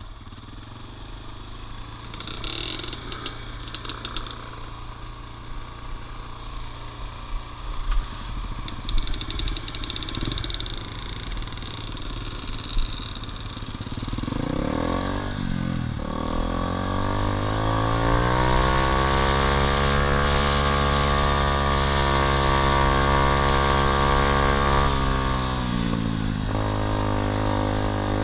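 Dirt bike engine running at low revs with some clicks and rattles, then revving up about halfway through and holding steady at higher revs. Near the end the revs drop sharply for a moment, then climb again.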